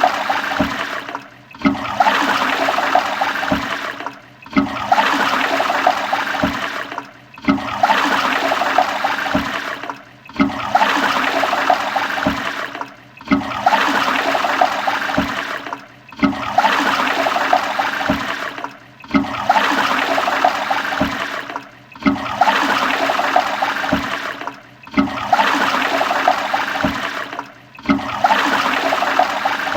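Toilet flushing, the same short flush repeated over and over: a loud rush of water lasting under three seconds, cut off by a brief gap before the next one begins, about ten times in a row.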